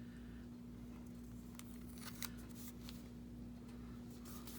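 Faint, scattered rustles and small clicks of paper and tape being handled and pressed onto a journal page, over a steady low electrical hum.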